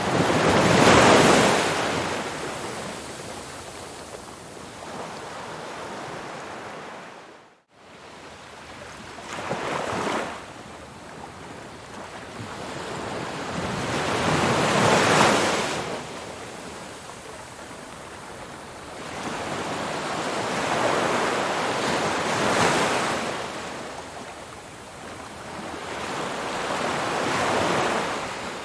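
Ocean surf: waves break and wash in surges that swell and fade every several seconds. The sound cuts out abruptly for a moment about eight seconds in.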